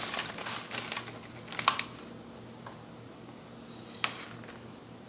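Close eating and tableware sounds: a run of small clicks and crackles, a sharp click about a second and a half in and another near four seconds, over a steady low hum.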